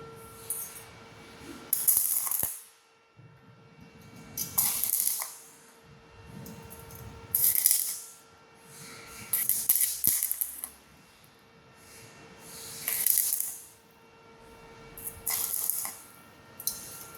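Metalwork on thin galvanized steel tube: about six short bursts of harsh metallic scraping and crackling, each under a second or two, with a faint steady hum underneath.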